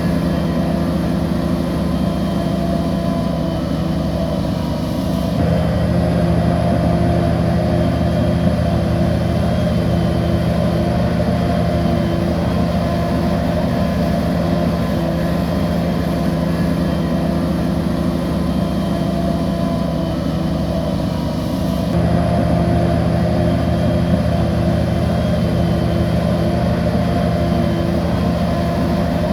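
Crawler bulldozer's diesel engine running steadily, with sudden shifts in level and tone about five seconds in and again about three quarters of the way through.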